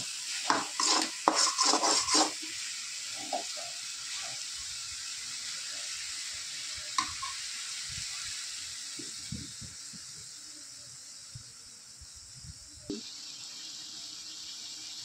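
Chicken pieces frying in masala in a metal kadai, a slotted metal spoon scraping and knocking against the pan for the first couple of seconds as it is stirred. After that a steady frying sizzle continues while the spoon rests in the pan, with a few soft knocks later on.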